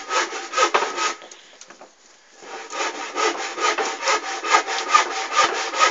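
Petrol burning inside a Suzuki TS250 two-stroke expansion-chamber exhaust, pulsing in a fast regular chuff of about five beats a second with a steady hum. It dies down briefly a little over a second in, then picks up again.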